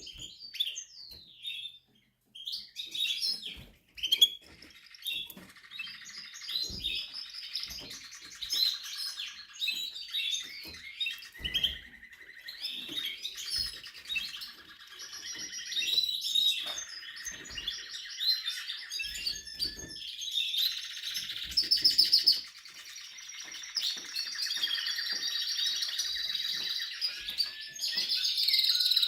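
Spanish Timbrado canary singing a long, almost unbroken song of fast trills and rolling phrases, with a brief pause about two seconds in.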